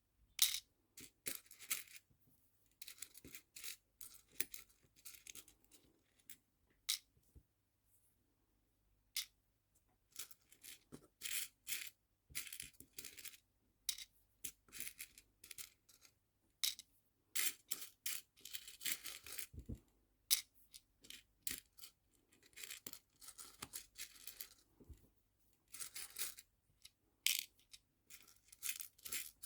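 Small nail-art charms clicking and clattering as they are handled and dropped into small storage boxes, in irregular bursts of light clicks and short rattles.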